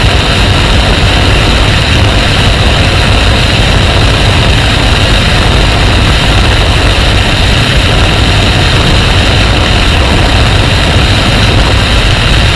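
Motorcycle engine running at a steady speed under a loud, even rush of wind and road noise, with no rise or fall in pitch.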